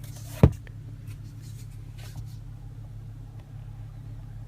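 A single sharp click about half a second in, the sun visor's vanity mirror cover snapping shut, over a steady low hum inside the car's cabin.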